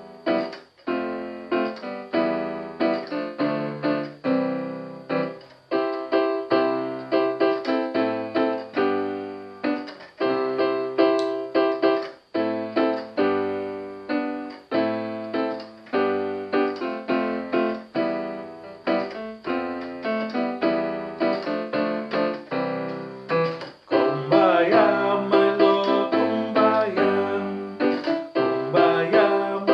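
Keyboard playing a piano part: chords and notes struck one after another, each left to fade, growing fuller near the end.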